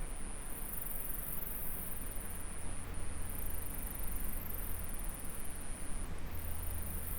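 Insects shrilling in one steady high-pitched tone that breaks off briefly about every second and a half, over the even rush of a nearby stream.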